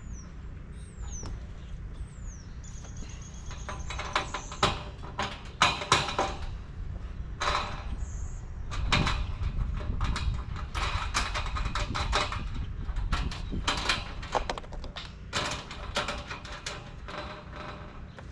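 Galvanized steel raised-bed panels and hardware being handled during assembly: a run of irregular sharp metallic clanks and knocks from about four seconds in. Near the start there are a few short high falling whistles.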